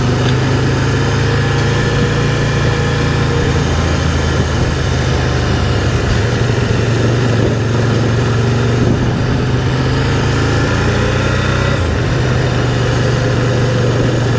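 Can-Am Spyder three-wheeler's engine running steadily while cruising on the road, with an even rush of wind and road noise.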